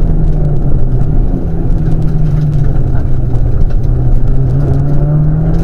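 Rally car engine running hard, heard from a camera mounted on the car over a dense rumble of road and wind noise. The engine note sinks gradually through the middle as the car eases off for a bend, then climbs again near the end as it accelerates away.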